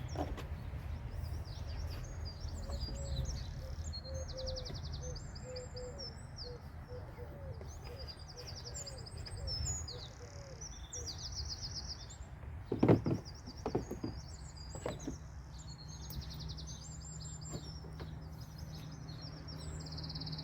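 Several birds singing, with high trills and chirps throughout and a lower call repeated for several seconds in the first half. About two-thirds of the way through come a few sharp clunks, the loudest sounds, over a steady low rumble.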